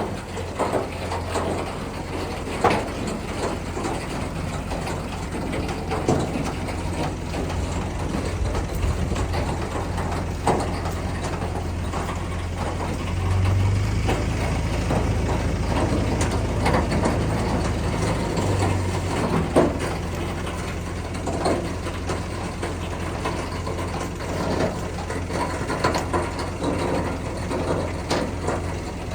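Car-carrier truck engine idling steadily, with scattered metallic clicks and clanks over it; the engine grows a little louder for several seconds midway.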